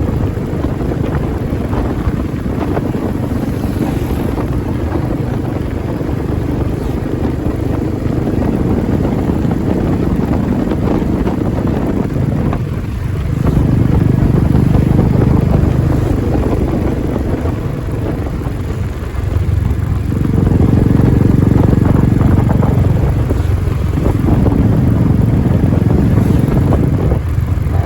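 Royal Enfield Classic 350's single-cylinder engine running with a low, loud exhaust note. The note eases off briefly about four times, each time coming back stronger.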